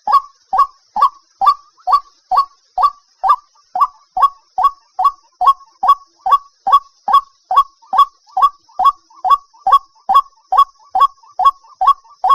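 White-breasted waterhen giving its lure call: a steady run of short, loud, honking 'kwak' notes, about two and a half a second, each note rising slightly in pitch.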